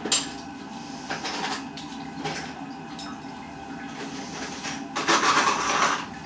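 Hard objects being handled: scattered clinks and knocks, with a louder scraping rustle about five seconds in.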